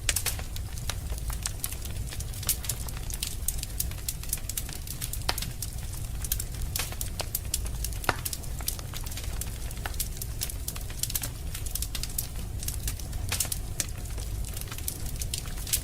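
Wood fire burning in a fireplace: a steady low rumble of flames with frequent sharp crackles and pops, one louder pop about halfway through.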